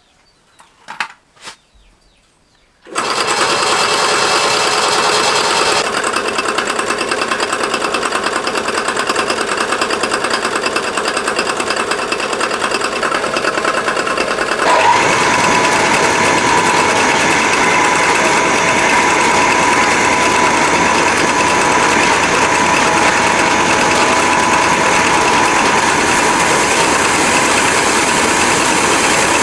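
Industrial rice milling machine starting up abruptly about three seconds in and then running with a loud, steady mechanical clatter; about halfway through a steady high whine joins it and the noise gets a little louder.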